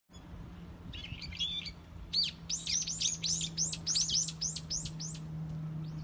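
A songbird singing: a few short chirps, then a quick run of about a dozen high, arching whistled notes at roughly four a second that stops near the end. A steady low hum runs underneath.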